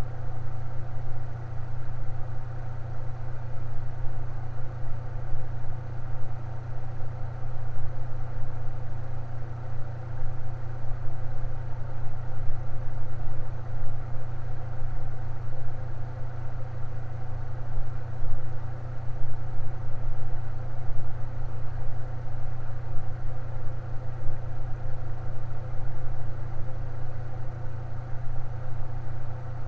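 Electric fan running steadily, a constant motor hum with a whir of blade noise above it.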